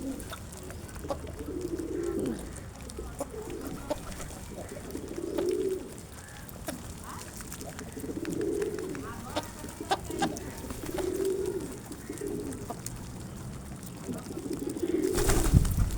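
Pigeons cooing, low repeated coos every second or few seconds, with scattered small clicks. A louder burst of noise comes near the end.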